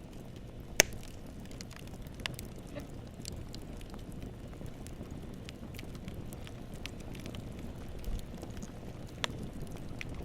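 Wood campfire burning, a low steady rumble with scattered crackles and one sharp loud pop about a second in.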